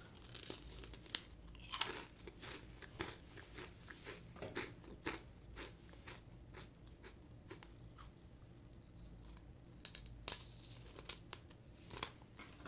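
A person biting and crunching hard pink flower-shaped sweets off a stick, then chewing them. There are crisp crunches near the start and again about ten seconds in, with quieter chewing between.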